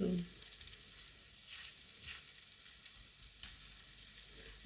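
Cabbage pancake frying in a pan: a steady sizzle with scattered small crackles.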